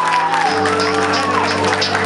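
Live concert music: a sustained chord that shifts lower about half a second in, with the audience cheering and whooping over it.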